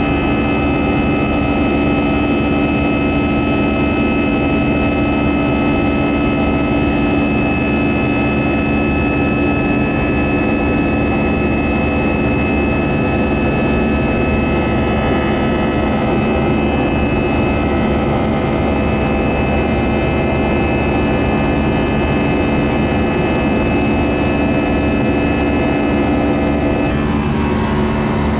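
Airbus A320 cabin noise in flight: a steady jet-engine drone and airflow rush, with several steady tones held throughout. A few of the tones shift slightly near the end.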